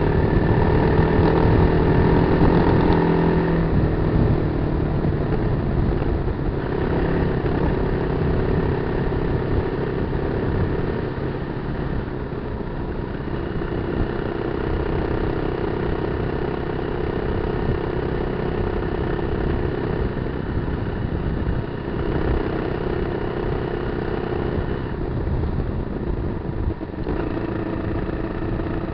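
Kawasaki KLR250's single-cylinder four-stroke engine running steadily while the motorcycle is ridden off road, its pitch shifting up and down several times with throttle changes, over a constant low rumble.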